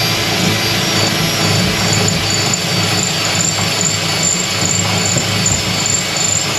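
Handheld electric power tool running steadily at full speed, with a high, even whine over a broad grinding hiss.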